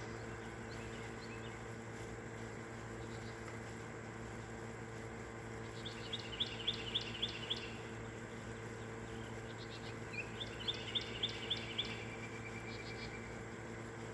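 Songbirds singing: two bright phrases of about seven quick repeated notes, one about six seconds in and one about ten seconds in, the second ending in a short trill, with faint scattered chirps between. A steady low hum runs underneath.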